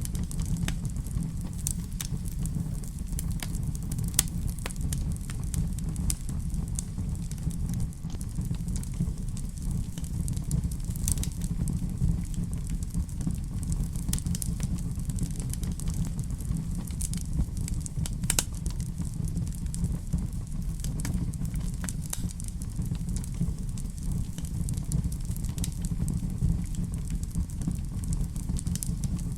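Wood fire burning in a fireplace: a steady low rumble of flames with irregular sharp crackles and pops scattered throughout, a few louder pops among them.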